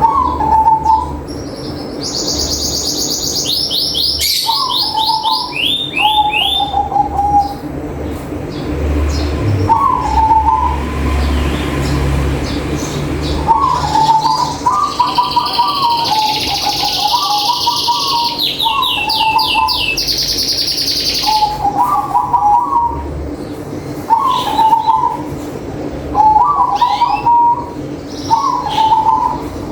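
Zebra dove (perkutut) cooing in short, quick phrases, repeated every two to three seconds. Another small bird adds fast, high chirping trills a couple of seconds in and again in the middle, over a steady low hum.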